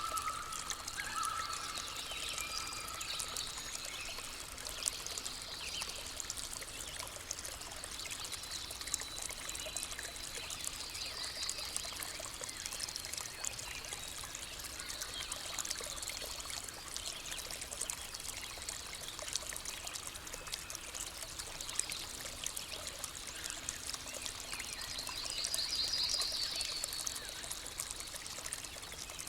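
Stream water trickling and pouring steadily, with birds calling now and then: short high trills, the clearest one near the end.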